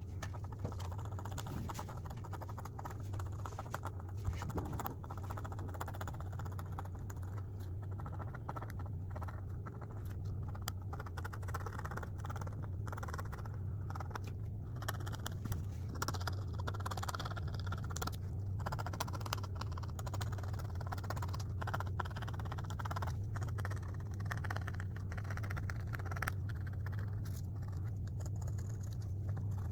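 A drawing tool scratching and scraping on a drawing surface in many short, irregular strokes, over a steady low hum.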